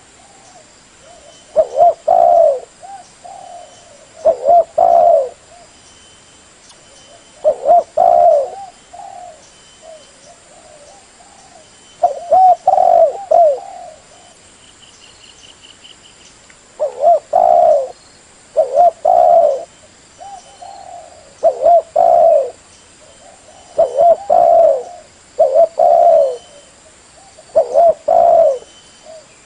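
Spotted dove cooing: loud phrases of a few hoarse coos about every two to three seconds, with softer coos between them.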